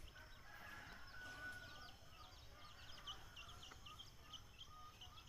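Faint near-silence broken by small birds chirping quickly and regularly, about three short high descending chirps a second with lower short notes between them, over a low steady rumble.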